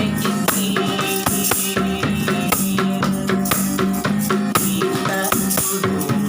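Street musicians playing an instrumental passage: a shaker rattle keeps a steady beat over a drum and plucked strings.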